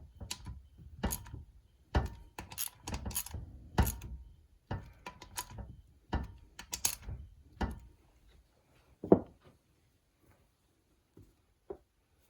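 Hand tools and metal engine parts clicking and knocking during bench assembly. The clicks come thick and irregular for about eight seconds, then thin out to a few scattered clicks.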